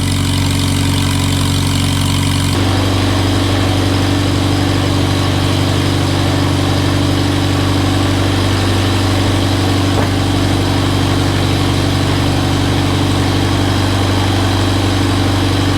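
Old farm tractor's carburetted petrol engine idling steadily, freshly started in the cold and warming up. A little under three seconds in its note changes and gets fuller, then it runs on evenly.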